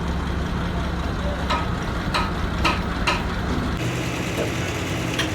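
A truck engine idles steadily while a hammer strikes metal four times in quick succession, each blow leaving a short ring.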